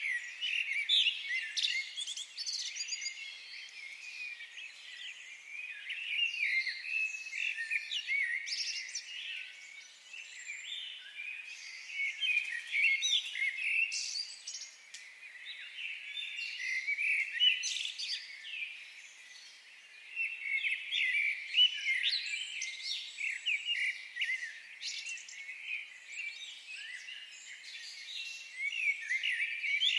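A chorus of several small birds chirping and singing at once, a dense run of short high calls and trills that thins briefly about ten seconds in and again around twenty seconds in.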